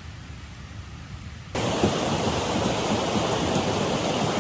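A low rumble at first, then about one and a half seconds in, an abrupt switch to the loud, steady rush of a fast-flowing creek.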